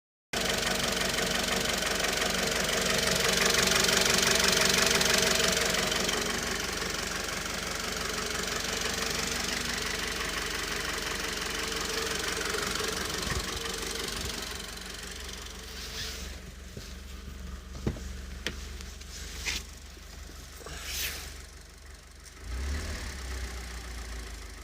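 Mitsubishi 4B11 inline-four engine running with a knock whose cause the owner cannot identify. It is loudest a few seconds in and much quieter after about fifteen seconds, where a few sharp clicks stand out.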